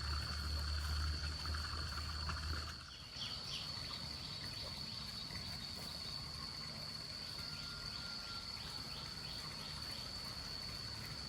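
Steady high-pitched insect trilling with faint repeated chirps, a rural outdoor background. A low hum runs under it for about the first three seconds and then cuts off abruptly.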